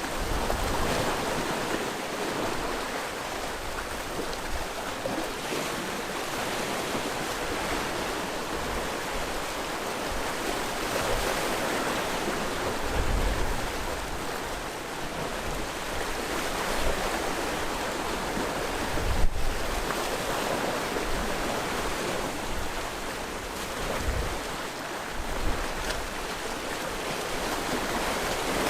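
Sea waves washing onto the shore in a steady surf that swells and eases, with a few brief low thumps.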